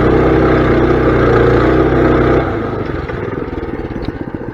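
Mini bike engine held at steady high revs, then the throttle comes off about two and a half seconds in and it drops to a lower, rapidly pulsing run.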